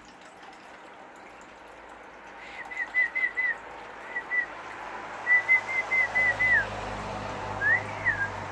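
Runs of short, clear whistled notes at one pitch, about five a second, broken by short pauses, then a single whistle that rises and falls near the end. A faint low hum comes in about halfway through.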